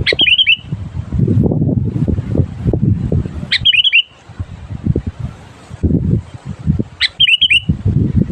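Sooty-headed bulbul (kutilang) calling: three short phrases, each a quick run of bubbly notes, about three and a half seconds apart. Under them runs a loud, uneven low rumbling noise.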